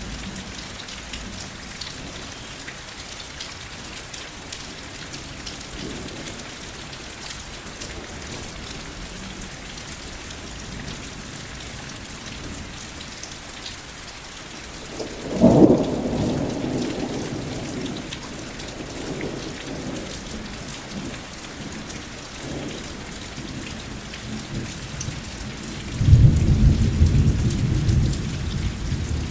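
Steady rain falling, with two claps of thunder: one breaks sharply about halfway through and rumbles off over a few seconds, and a deeper, louder rumble rolls in near the end.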